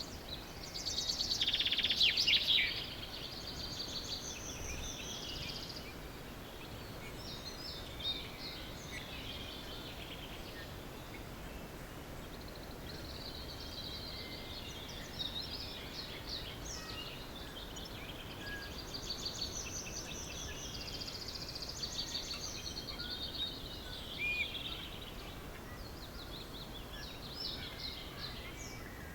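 Dawn chorus of several songbirds singing over one another in short, repeated phrases, with one loud, rapid song about a second in. A faint steady background hiss lies under it.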